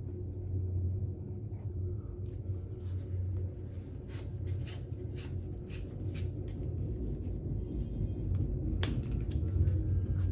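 Playing cards being handled on a tabletop: a run of short light clicks and swishes starting about two seconds in, with one sharper click near the end. A steady low hum runs underneath.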